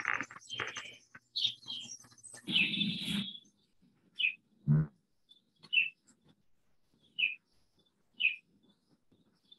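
Outdoor birdsong: several birds chirping in the first few seconds, with a louder, noisier stretch about three seconds in. After that a single bird repeats a short high chirp about every second and a half, and one brief low call comes about halfway through.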